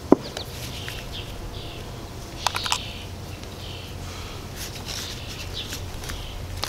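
Birds chirping in the background, with short calls about once a second over a low steady outdoor rumble. A few sharp taps cut through, the loudest just after the start and a small cluster about two and a half seconds in: a plastic spoon knocking against a plastic bowl.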